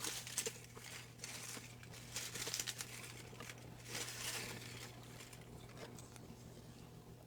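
Paper slips rustling and crinkling in soft, irregular bursts as they are handled and drawn from a hat.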